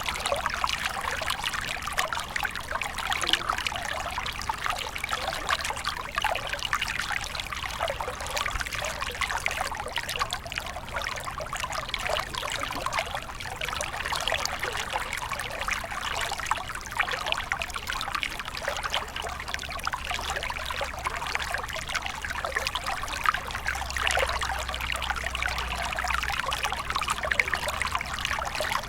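Water stream flowing and trickling steadily, a continuous splashing babble of water over stones.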